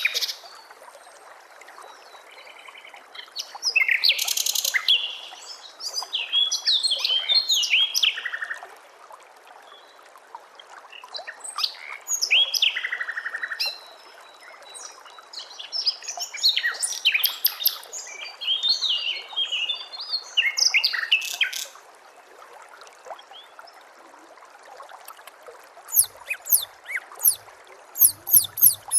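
White-rumped shama (murai batu) song from a training recording: phrases of varied, quick, gliding whistled notes, several seconds each, with pauses between them. Near the end comes a fast run of sharp repeated notes. A faint steady hiss lies under the song.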